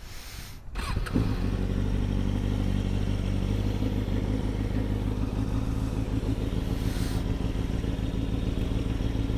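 Kawasaki ZX-6R 636's inline-four engine starting up about a second in, then idling steadily.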